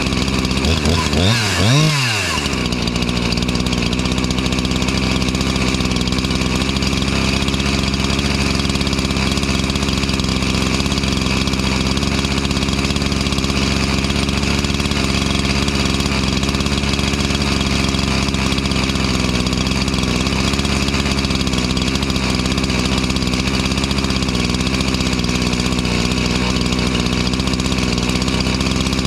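Rebuilt Husqvarna 345 two-stroke chainsaw engine, revved briefly about a second in and then settling to a steady idle while its carburettor is being tuned.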